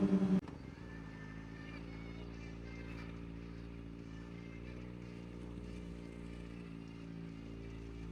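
Kawasaki Ninja ZX-4RR's inline-four engine idling steadily. A louder engine note cuts off abruptly about half a second in.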